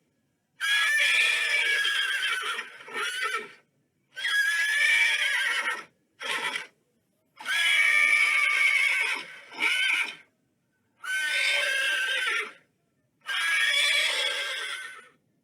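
Horse neighing: a series of about six whinnies, each one to two seconds long, with short silent gaps between them.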